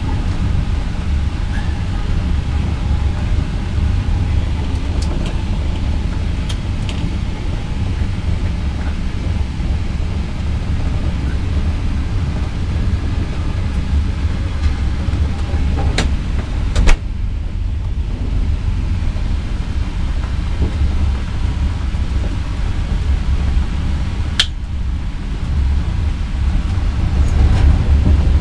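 Steady low rumble of a passenger train carriage rolling along the rails, heard from inside the carriage. A few sharp clicks come through, two close together past the middle and one later.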